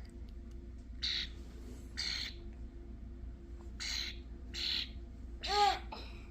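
Juvenile European starling giving short, harsh, raspy begging calls while being hand-fed, in pairs about a second apart, with a shorter call that rises and falls in pitch near the end.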